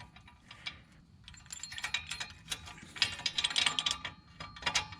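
Bearing-puller attachment being slid into a Ford 8.8 rear axle tube and worked into place behind the axle bearing: irregular metal clicks, clinks and scraping of steel tool on the axle housing.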